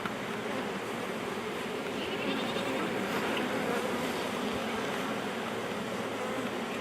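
Steady buzzing hum of a swarm of honey bees around an opened hive.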